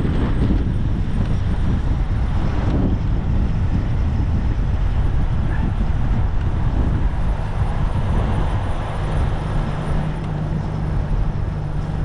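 Strong gusting wind buffeting the camera microphone through its wind guard, a loud, steady low rumble. A faint steady low hum joins in about two-thirds of the way through.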